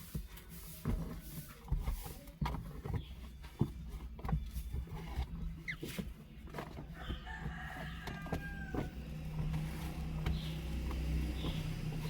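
Scattered clicks and knocks of things being handled during car-interior cleaning over a low steady hum, with a drawn-out animal call, typical of a crowing fowl, about seven to nine seconds in and short high chirps near the end.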